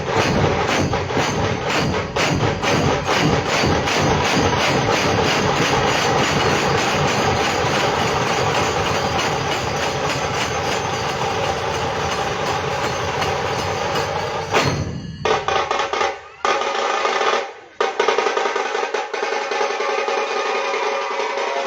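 Percussion music: fast, even drumming that breaks off about 15 seconds in, after two brief gaps, giving way to steadier sustained tones.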